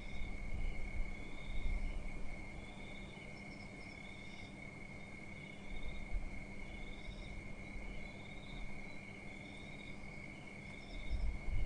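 Insects calling: a steady high-pitched buzz with short chirps repeating about once a second, over a low rumble that swells near the start and again near the end.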